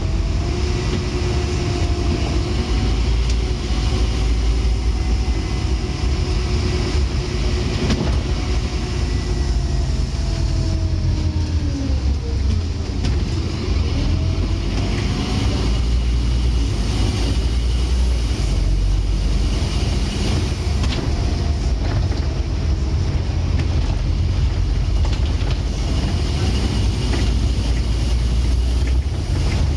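Scania N230UD Omnicity double-decker bus running under way, its 9-litre five-cylinder Scania engine giving a steady low rumble. A whine rises and falls with road speed, dropping away about halfway through and climbing again soon after.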